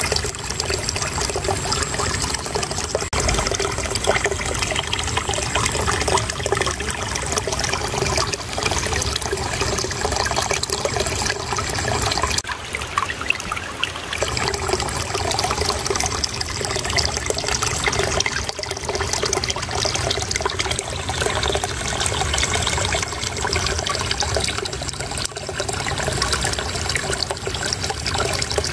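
Flowing water babbling and trickling steadily, a continuous splashing with no pauses.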